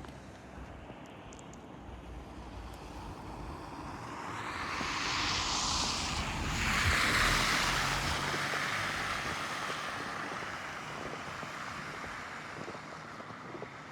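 A vehicle driving past on a wet, snowy road: the tyre hiss swells, peaks about seven seconds in with a drop in pitch, and fades away.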